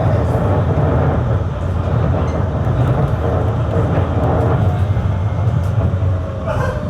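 GT-type low-floor tram running along its rails, heard from inside the car: a steady rolling rumble of wheels and running gear.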